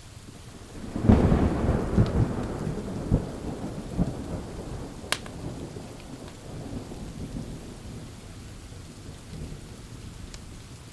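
A thunderclap breaks about a second in and rolls on in a few rumbling peaks that fade over several seconds, over steady pouring rain. A few sharp pops from a crackling wood fire.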